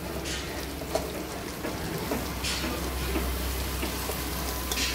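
Chicken, potatoes and chopped taro sizzling in a wok over a wood fire as handfuls of taro pieces are tipped in from a steel bowl, with a few brief louder hisses.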